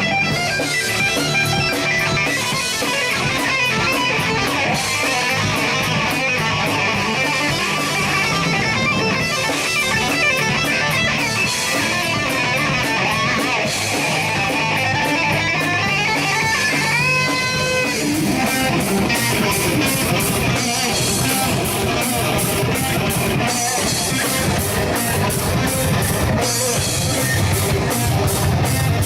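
Rock band playing an instrumental passage, an electric guitar holding long, bending lead notes over bass and drums. The cymbals grow busier in the second half.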